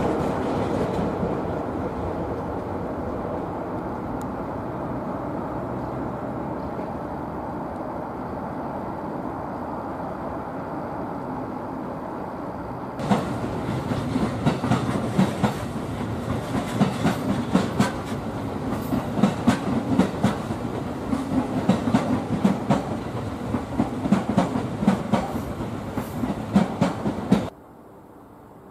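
Train running through a station yard: a steady rolling rumble, then from about 13 s in, wheels clattering over rail joints and points with many sharp clicks and knocks. It cuts off sharply near the end.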